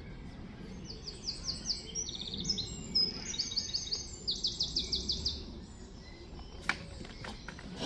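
A songbird singing: a run of rapid high trills, each phrase a quick series of repeated notes at a different pitch, lasting about four seconds. A sharp click follows near the end.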